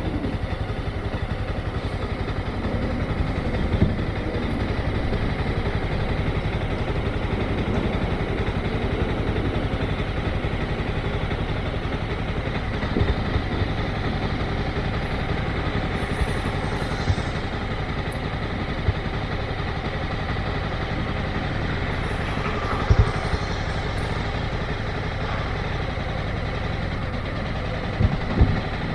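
Motorcycle engine running steadily at low speed, with a few brief knocks.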